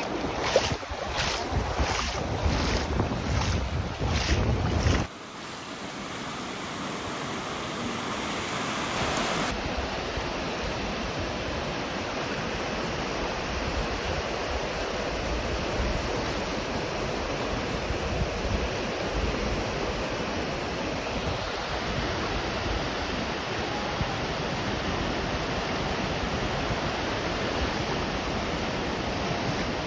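Storm surf on the Black Sea shore: a steady wash of breaking waves. For the first five seconds wind buffets the microphone with a heavy rumble, then it cuts off suddenly, leaving only the even surf.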